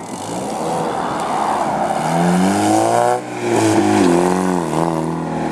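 Ford Escort GT race car accelerating close past, its engine revving up with a rising pitch, dropping briefly about three seconds in as it changes gear, revving up again, then falling in pitch near the end.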